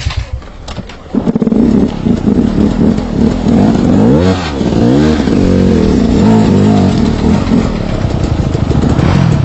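Trail motorcycle engine running on a muddy trail, quieter for about the first second, then revving up and down with quick rises and falls in pitch about four to five seconds in.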